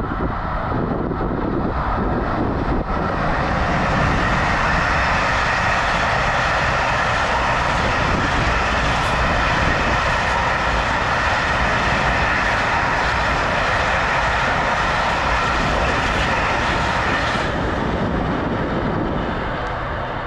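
Long freight train of pipe-laden flat wagons passing on the rails: a steady rumble and rattle of wheels on track. It builds about three seconds in and falls away near the end as the last wagons go by.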